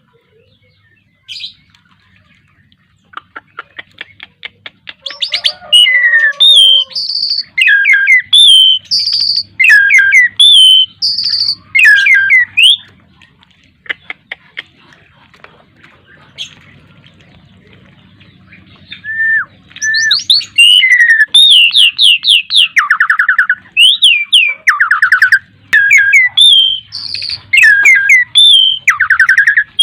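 Jalak suren (Asian pied starling) in full song: a run of quickening clicks, then loud whistled and chattering phrases in two long bouts, with a quieter gap in the middle.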